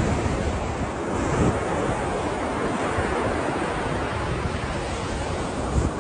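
Ocean surf: waves washing in a steady roar of noise, swelling slightly about a second and a half in and again near the end, with wind rumbling on the microphone.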